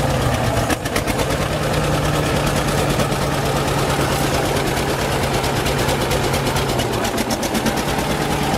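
John Deere G tractor's two-cylinder engine running steadily, with an even pulsing beat.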